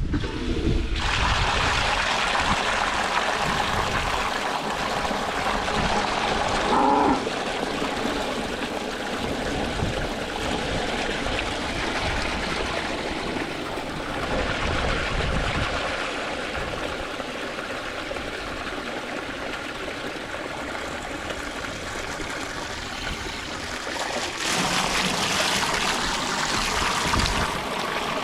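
Water pouring steadily from an IBC tote down a makeshift chute, made of an old PTO shaft cover and a gas water heater chimney, into a cattle water trough. It is a continuous rush and splash that grows a little louder near the end.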